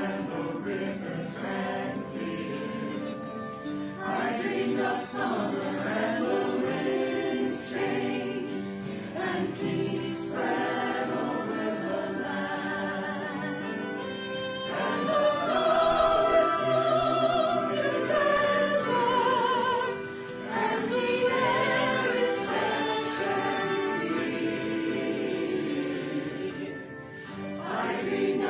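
A choir singing sustained, many-voiced lines with vibrato, swelling loudest about halfway through.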